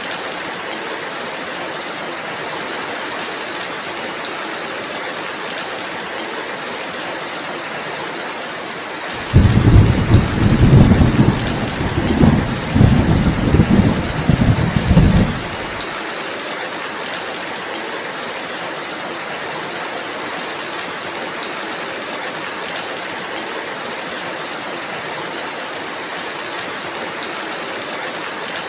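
Steady rain falling, with a roll of thunder that comes in suddenly about a third of the way in, rumbles low in several swells for six or seven seconds and then stops.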